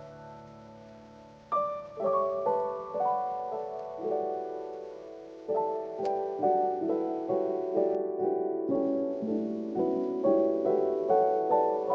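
Slow piano music: single notes and soft chords struck and left to ring. A held chord fades out, and new notes come in about a second and a half in.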